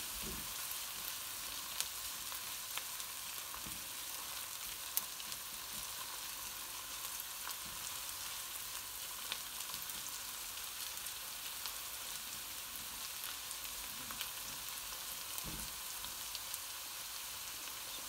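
Diced onion and tomato sizzling steadily in ghee in a wok, stirred and pushed around with a silicone spatula, with a few small sharp clicks.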